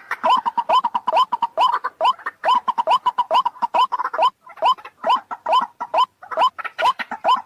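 White-breasted waterhen calling: a fast, even run of short rising notes, about three a second, the repetitive call used as a lure for this bird.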